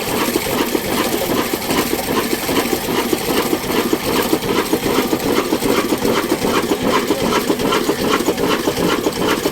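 Ruston Hornsby diesel engine running at a steady speed, with a fast, even mechanical clatter.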